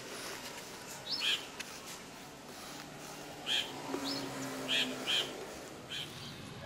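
Birds chirping in short, separate calls, about six of them spread across a few seconds.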